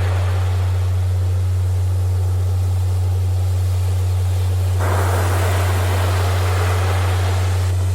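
A steady, loud low hum tone, a therapeutic 'frequency' track, plays over recorded ocean surf noise. The surf hiss swells abruptly about five seconds in and drops back near the end.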